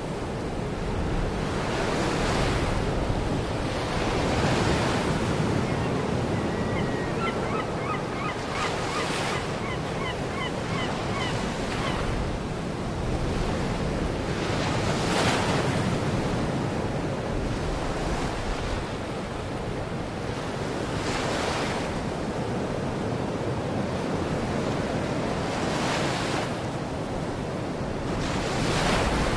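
Baltic Sea surf washing onto the shore, swelling every few seconds, with wind on the microphone. From about a fifth to two fifths of the way in, a bird gives a run of short, high, repeated calls.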